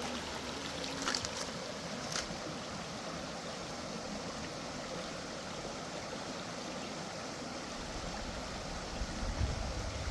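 Steady rushing noise of running water, with two short clicks about one and two seconds in and a low rumble near the end.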